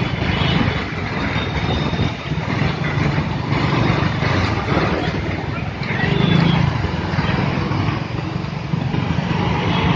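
Street traffic: motorcycle and car engines running in a constant wash of road noise, growing louder about six seconds in as a vehicle passes close.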